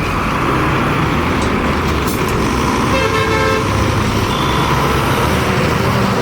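Heavy truck engine running steadily on a ghat road climb, with a vehicle horn honking briefly about three seconds in.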